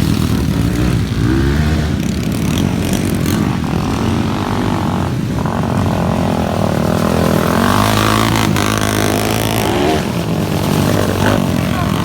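Underbone motorcycle engines revving hard in a motocross race, their pitch rising and falling repeatedly as the bikes accelerate and back off.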